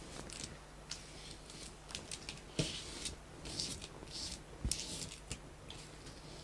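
Masking tape being peeled off watercolour paper in several short pulls: faint, crackly rustles, with a couple of small knocks in between.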